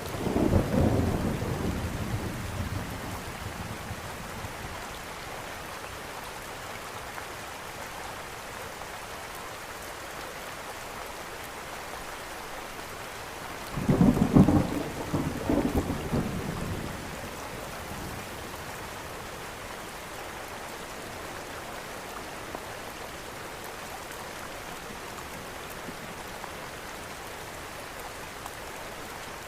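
Steady rain falling, with two rolls of thunder: one right at the start that fades over about three seconds, and a louder one about halfway through.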